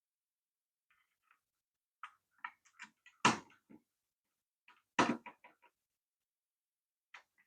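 Small plastic and metal parts of a toy RC car being handled during a tear-down: scattered light clicks, with two louder knocks about three and five seconds in.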